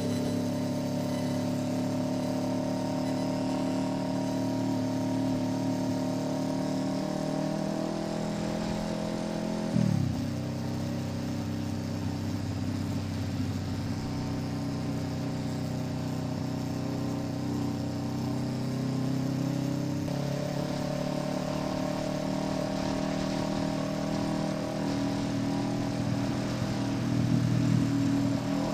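Kawasaki Ninja 650 parallel-twin engine with an SC Project exhaust, running steadily under way. About ten seconds in, the revs spike and then drop sharply, and they pick up again near the end.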